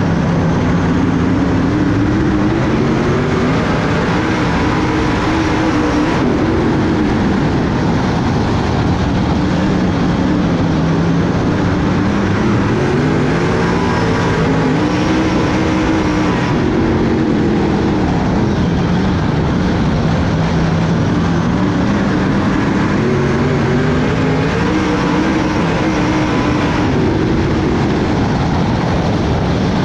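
Dirt-track race car's V8 engine at racing speed. Its pitch climbs and drops again in a repeating cycle about every ten seconds, the car going on and off the throttle around the oval.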